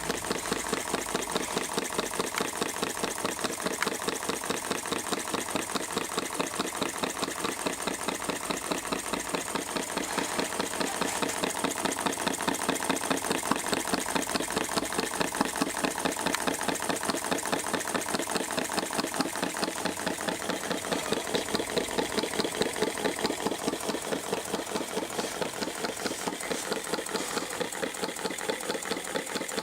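Homemade Stirling hot-air engine running steadily, its moving parts giving a rapid, even ticking clatter.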